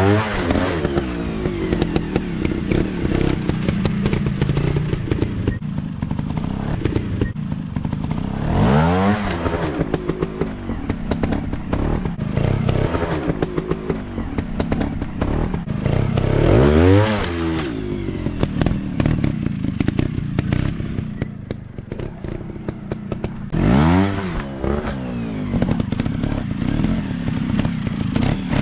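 Small dirt bike engines revving hard in repeated bursts, the pitch climbing and falling again about every seven to eight seconds, over a steady engine drone with frequent clattering knocks.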